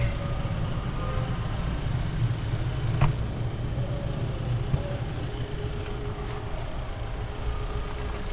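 Steady low rumble of a motor vehicle engine running, with a sharp click about three seconds in.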